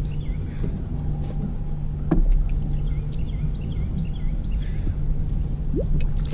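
Steady low hum of a boat motor running at trolling speed, with low wind rumble on the microphone, a few sharp clicks and knocks of tackle or the boat, and faint short high chirps throughout.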